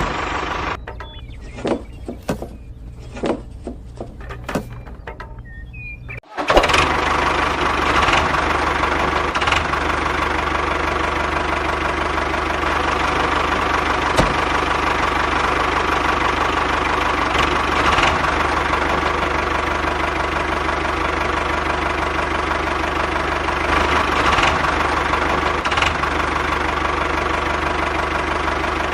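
A few scattered knocks and clicks, then about six seconds in a steady engine sound starts abruptly and runs on, with a held tone through it.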